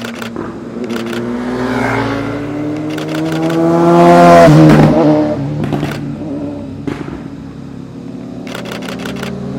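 A motorcycle engine accelerating past: the engine note climbs as it approaches, is loudest about four and a half seconds in, then drops in pitch as it goes by. A DSLR shutter fires in rapid bursts several times, and another engine begins approaching near the end.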